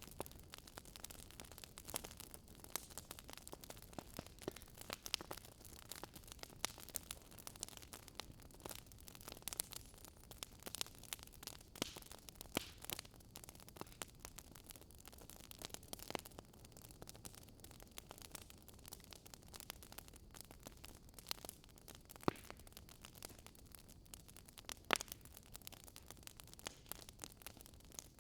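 Wood fire crackling in a fireplace: irregular sharp pops and snaps over a faint steady hiss, with one louder pop near the end.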